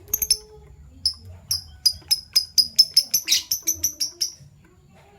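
Fischer's lovebird giving a run of short, high chirps, a few spaced out at first, then quickening to about five a second before stopping a little past four seconds in.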